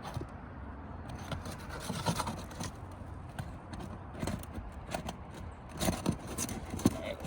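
A snake tool worked under an asphalt shingle to break its nails loose: irregular scraping and rubbing against the shingle, with scattered knocks, the loudest a couple of seconds before the end.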